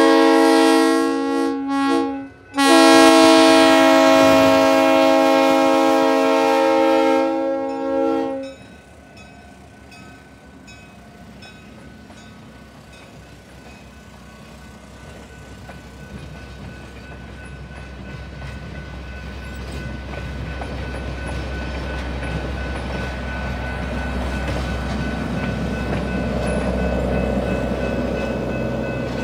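Locomotive air horn blowing loudly for the grade crossing, broken twice by short gaps about two seconds in, then one long blast that cuts off about eight seconds in. After it, the crossing bell keeps ringing while the passenger coaches roll through, the rumble and clatter of their wheels building toward the end.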